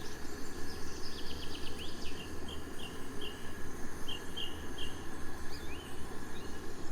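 Forest ambience: a small bird chirping a quick run of short, high notes, then single chirps spaced out over the next few seconds, over a steady low rushing noise.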